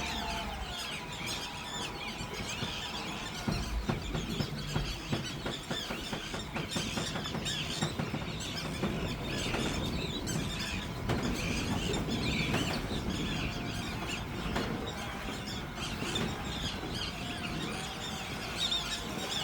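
River tern chicks chirping shrilly and constantly, many short calls overlapping, the begging cries of young birds calling for a parent.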